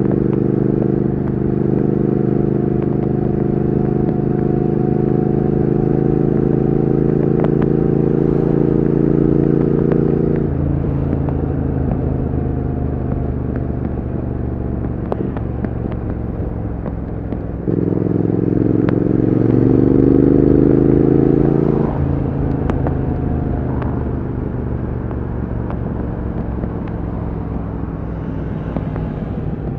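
Triumph Speed Twin 1200's 1200 cc parallel-twin engine and exhaust running under way, holding a steady note for about ten seconds before the throttle eases off. About eighteen seconds in it picks up again with a rising note, then backs off about four seconds later.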